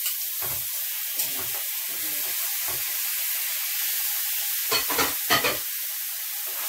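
Shell-on king prawns sizzling steadily in hot butter with garlic and chili flakes in a frying pan as they are added. A few sharp knocks come about five seconds in.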